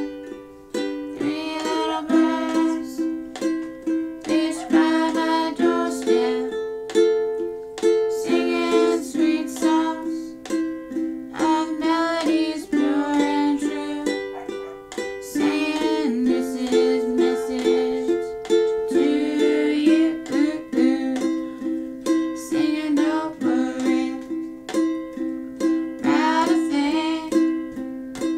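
Acoustic ukulele strummed in a steady, even rhythm, changing chords every couple of seconds.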